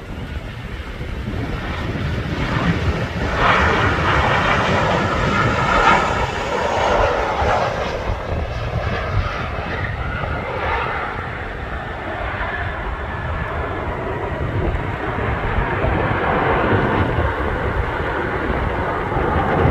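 Jet airliner's engines running as the plane passes, the noise swelling about four to six seconds in, over a low wind rumble on the microphone.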